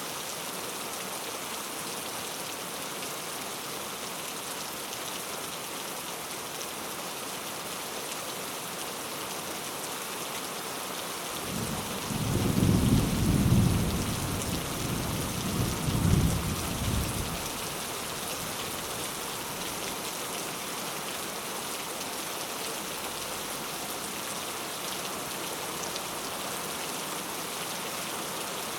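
Steady heavy rain with a roll of thunder about twelve seconds in, rumbling for some six seconds with two peaks before it fades back under the rain.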